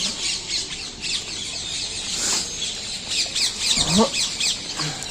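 Many birds chirping and chattering in dense, overlapping calls, with a short rising whine about four seconds in.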